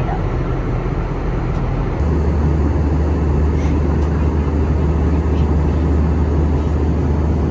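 Steady in-flight cabin noise of an Airbus A320neo: a constant rumble of engines and airflow. About two seconds in it changes abruptly to a slightly louder, deeper hum.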